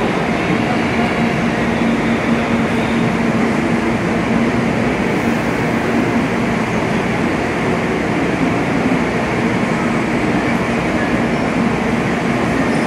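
N700S Shinkansen train standing at the platform with its doors shut for departure: a steady hum with a low drone. It keeps on unchanged as the train begins to roll near the end.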